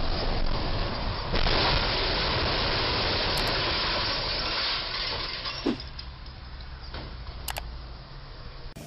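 Street traffic noise with a vehicle passing, louder and hissier for a few seconds, then a single sharp knock about five and a half seconds in.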